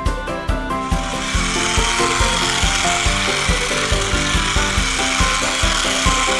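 Background music with a steady beat, and from about a second in a steady rasping, scrubbing noise laid over it: a cartoon cleaning sound effect.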